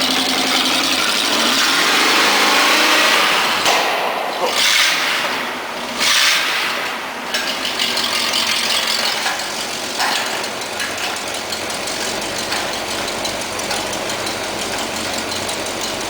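Oldsmobile 350 V8 engine with Flowmaster mufflers held at high revs for about three and a half seconds. It then gives a few sudden sharp pops and blips around four and six seconds in, and settles into a steady idle.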